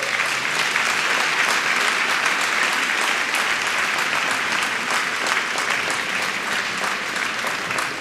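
Audience applauding: dense, steady clapping that starts as the music stops and eases slightly near the end.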